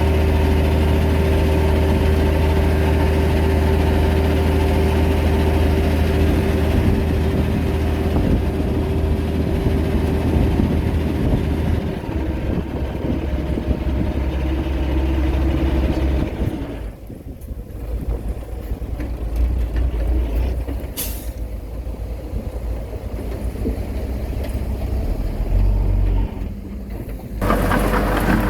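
Heavy diesel engines of earthmoving machinery running steadily, dropping quieter about two-thirds of the way through. A short sharp air hiss, typical of a truck's air brake, comes about three-quarters in, and loud engine noise returns just before the end.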